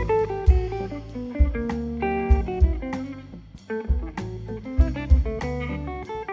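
Live instrumental band playing: a guitar melody over a walking bass line, with kick drum and cymbal strokes keeping the beat.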